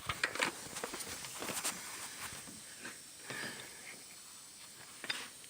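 Handling noise close to a phone's microphone: scattered clicks, light scrapes and rustling as hands and the phone move around a car's engine bay, with no engine running.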